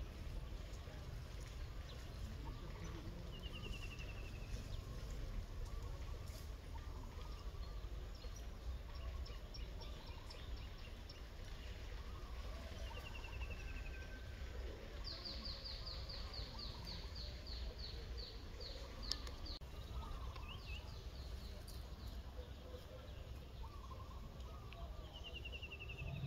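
Birds calling over a steady low outdoor rumble: several short, quick, falling trills, and from about the middle a longer run of rapid high notes.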